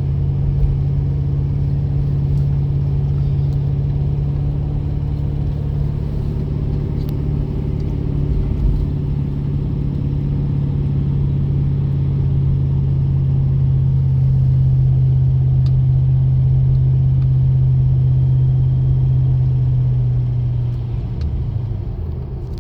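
A vehicle driving at steady speed: its engine drones low and steady, easing off slightly near the end.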